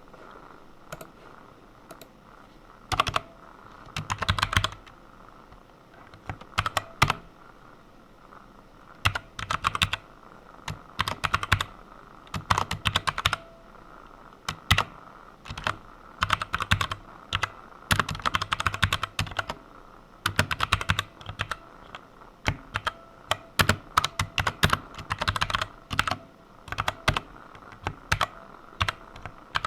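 Typing on a computer keyboard in irregular bursts of rapid key clicks with short pauses between them.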